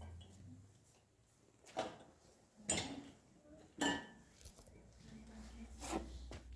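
Four sharp knocks and clinks, spread a second or so apart, some leaving a brief ring, like household items being handled.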